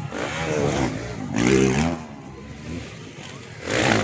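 Racing underbone motorcycles revving hard on a dirt track, the engine note rising and falling in three surges as the bikes accelerate and pass.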